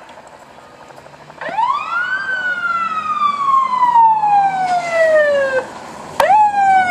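Emergency vehicle siren: about a second and a half in it climbs quickly, then slides slowly down in pitch for about three seconds and cuts off. After a sharp click it starts again near the end, higher, and falls once more.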